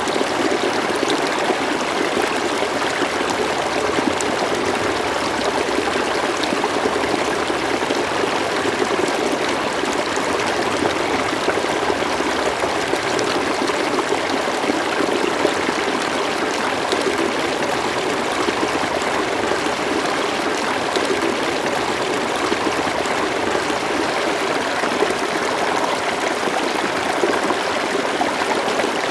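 River water flowing steadily, a continuous rushing and trickling babble with small splashes flickering through it.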